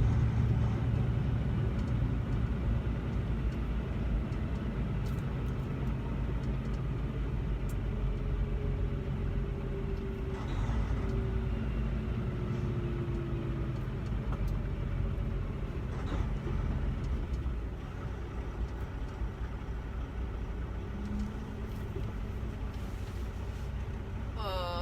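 Steady engine and road rumble inside a semi truck's cab while driving at highway speed.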